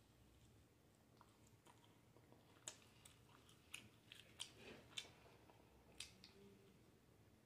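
Faint close-miked mouth sounds of someone eating a grilled cheese sandwich: soft chewing with a run of short, sharp lip smacks and wet clicks a few seconds in.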